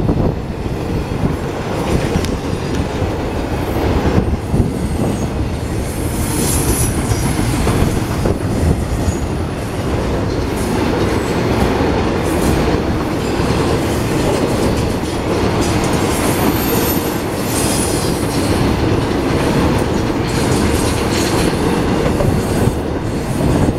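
CSX intermodal freight train's cars rolling past at close range: a steady rumble of steel wheels on rail with clatter over the rail joints. Brief high wheel squeals come through about seven and again about seventeen seconds in.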